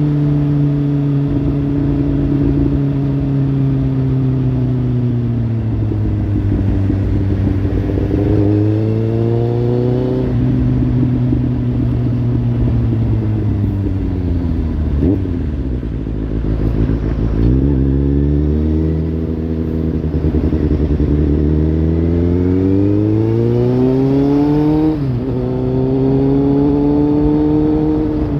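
Kawasaki Z800's inline-four engine through a Lextek slip-on exhaust, pulling under load: the revs climb and drop sharply twice, at about ten and twenty-five seconds in, as if shifting up, and fall away in between as the throttle closes.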